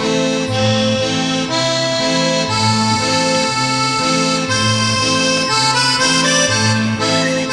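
Accordion music: a tune of held notes over a bass line that changes about twice a second.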